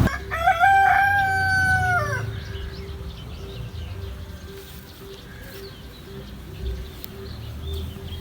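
Rooster crowing once, a held call of about two seconds that drops in pitch at the end, followed by faint chirps.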